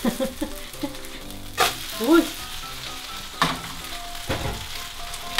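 Seafood scallion pancake frying in oil in a pan, sizzling steadily, with three sharp knocks as the pan is handled and set on the gas stove.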